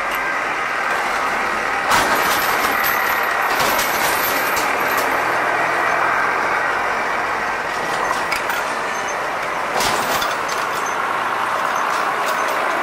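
Train running on the rails: a loud, steady rattle of wheels and coaches, with a sharp clank about two seconds in and another near ten seconds.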